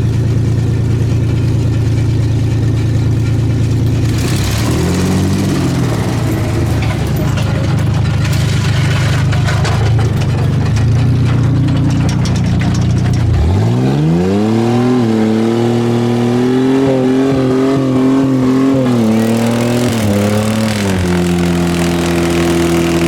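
Ford Ranger V6 engine running loudly, then revving up sharply about halfway through, held at high revs for several seconds with small surges, before easing back to a steady run near the end.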